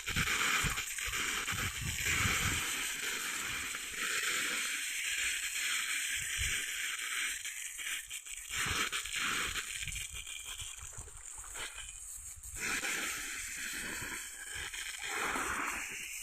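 Water spraying and sloshing from a leaking water pipe under repair, a steady hiss with scattered low thuds.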